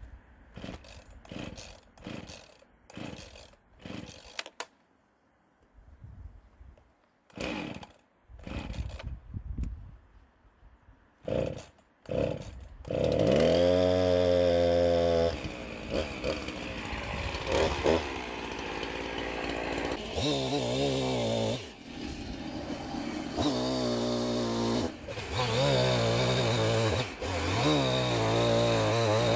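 Irregular knocks and clatter, then a gasoline chainsaw starts about twelve seconds in and runs loudly to the end, its pitch falling and rising repeatedly as the throttle is revved and eased.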